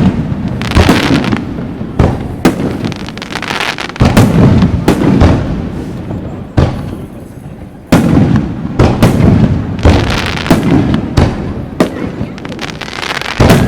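Aerial fireworks bursting one after another: many sharp bangs close together, about one or two a second, with crackling between them.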